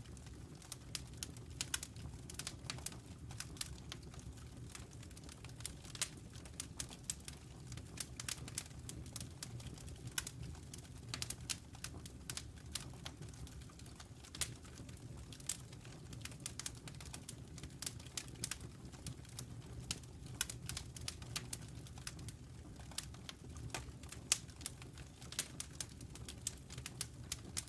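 Log fire crackling: irregular sharp pops and snaps, several a second, over a steady low rumble of the flames.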